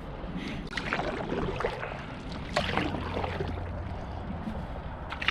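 Canoe paddle strokes in river water: a splashing swish of the blade every second or two.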